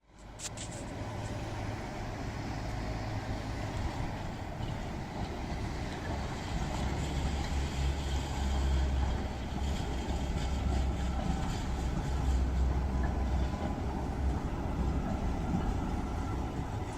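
Tram running on its rails: a steady rumble that grows heavier through the middle, then eases off near the end.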